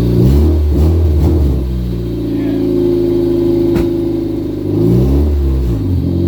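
A 1995 Honda Civic's four-cylinder engine revving up and back down twice, running steadily in between. A single sharp click sounds about midway.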